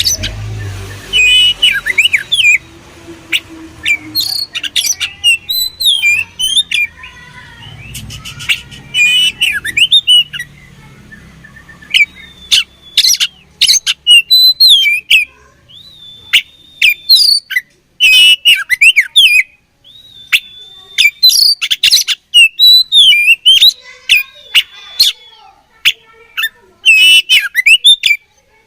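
Oriental magpie-robin (kacer) singing loud, varied phrases: quick whistled glides mixed with sharp, harsh notes, broken by short pauses.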